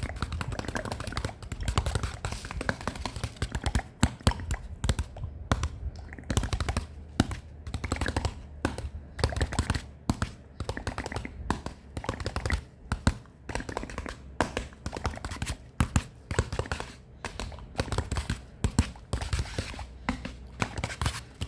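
Fingers tapping and clicking on a foam roller, a quick irregular run of sharp taps, several a second.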